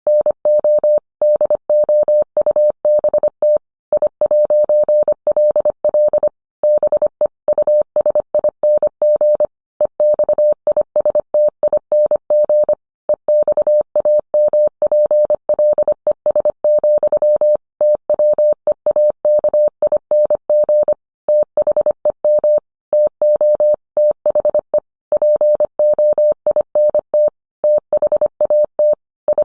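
Morse code: a single mid-pitched tone keyed on and off in rapid dots and dashes at high speed, with short pauses between words.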